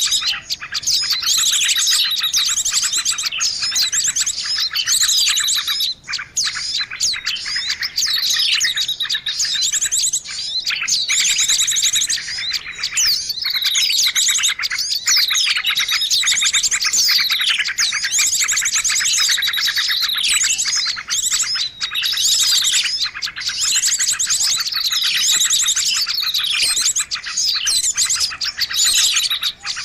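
Noisy bird-lure recording: a dense, unbroken chorus of many small birds chirping and calling over one another, with fast trills and quick downward-sliding notes.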